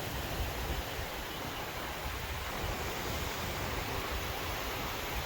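Strong storm wind gusting, a steady rushing noise with a low, uneven rumble of wind buffeting the phone's microphone.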